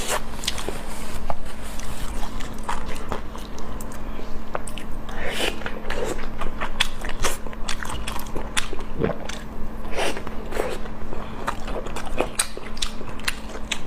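Close-miked eating sounds: irregular biting and chewing with small crunches and wet clicks.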